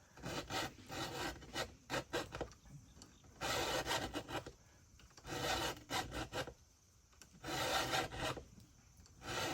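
A file stroking across a chainsaw chain's cutter tooth to sharpen it: a run of short quick strokes, then three longer, slower strokes about two seconds apart.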